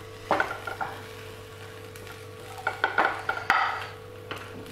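Cauliflower florets frying in a pan in a little mustard oil with a light sizzle, while a spatula scrapes and turns them in short strokes, a few near the start and a cluster about three seconds in.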